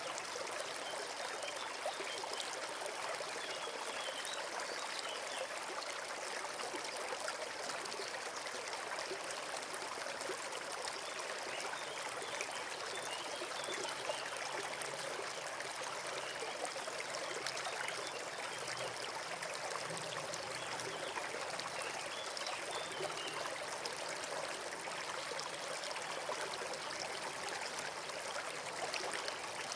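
A small forest brook running steadily with a continuous rushing trickle of water.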